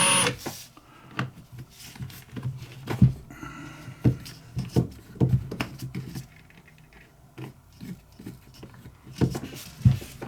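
Small power drill spinning down right at the start, then scattered irregular clicks and knocks of a small metal lighter and tools being handled.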